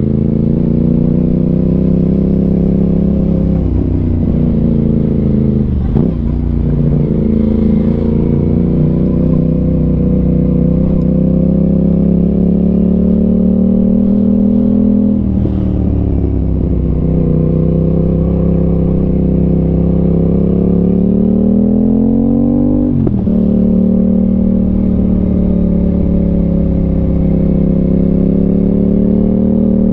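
Aprilia RS 660 parallel-twin engine through an SC Project exhaust, pulling under steady acceleration: its pitch climbs slowly and drops sharply at gear changes about 4, 6, 15 and 23 seconds in.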